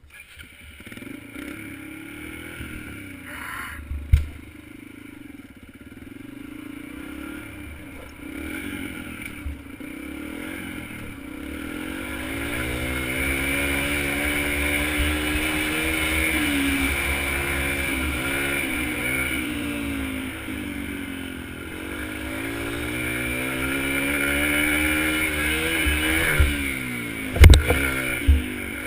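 Dirt bike engine revving, its pitch rising and falling several times and growing louder after about ten seconds. Sharp thumps about four seconds in and twice near the end.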